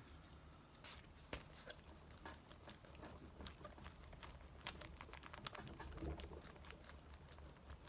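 Faint, scattered light taps and rustles of paper being handled and pressed down while a cut-out picture is glued into a notebook.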